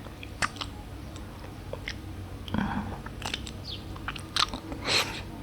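Close-up eating sounds: a series of irregular bites and crunchy mouth clicks as someone eats ice cream.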